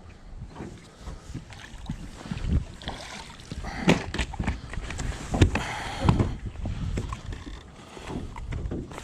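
Water splashing and knocks on a small fishing boat, with wind rumbling on the microphone. The loudest splashy bursts come about four seconds in and again around six seconds.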